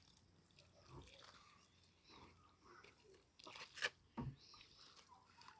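Near silence: quiet room tone with faint rustling and one short, sharp click about four seconds in.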